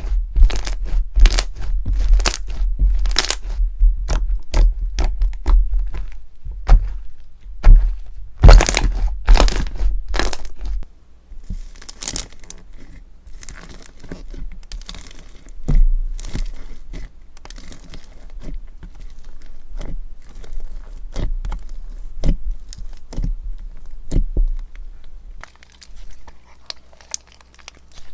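Crunchy slime being squeezed and pressed by hand, crackling and popping. The cracks are loud and come thick and fast for the first ten seconds or so, then give way to softer crinkling with scattered pops.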